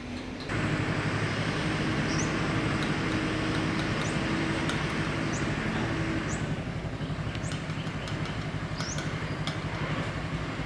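A machine starts up about half a second in and keeps running with a steady low hum and rumble.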